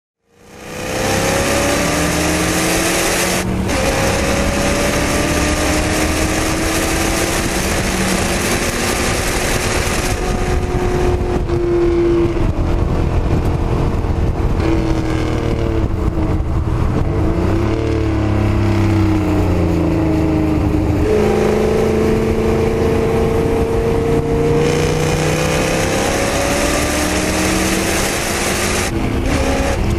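Small-block Ford 351 Windsor V8 in a race-prepared BMW E34, heard from inside the cabin, pulling hard with its pitch climbing and breaking briefly at gear changes, about three and a half seconds in and again near the end. Through the middle it eases off, its pitch falling and rising again through a downshift, before it pulls hard once more.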